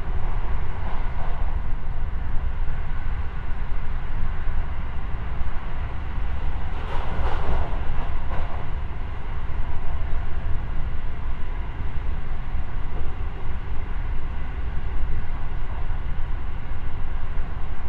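Interior running noise of a JR West 223 series electric train at speed, heard from inside the passenger car: a steady rumble of wheels on rail. A brief louder rush comes about seven seconds in.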